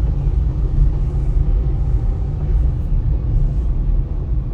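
Steady low rumble of a vehicle's engine and tyres, heard from inside the cabin while driving slowly.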